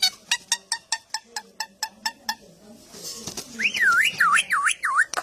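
Songbird calling: a fast run of short, sharp chips at about six a second, then near the end a loud whistle that swoops up and down four times.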